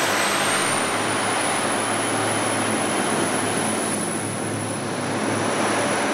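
Diesel multiple-unit commuter train running out along the platform, with a steady rumble of engine and wheels on rail and a thin high whine that rises slightly about half a second in.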